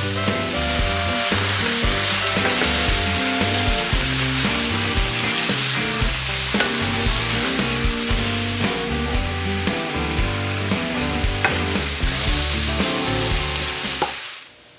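Zucchini and yellow squash slices sizzling in olive oil in a stainless steel skillet, stirred now and then with a spatula, under background music with a bass line. The sound cuts off abruptly shortly before the end.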